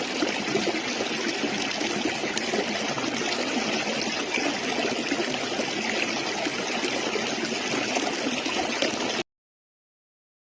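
A stream of water flowing steadily over stones, which cuts off suddenly into silence about nine seconds in.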